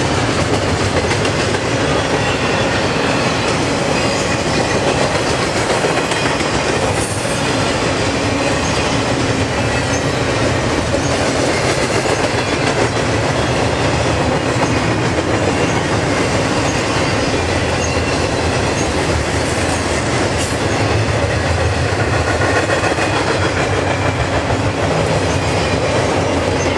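CSX double-stack intermodal freight cars rolling past at speed: a steady, loud rumble and clatter of steel wheels on the rails.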